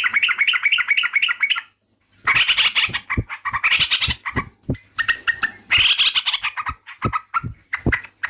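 Yellow-vented bulbul (trucukan) singing in loud, rapid chattering phrases: a fast run of repeated notes, a short pause, then several more bursts of quick notes.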